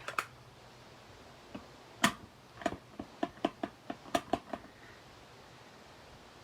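Small plastic clicks and taps from inking a rubber stamp on an ink pad: a sharp click about two seconds in, then a quick run of about eight taps, roughly four a second.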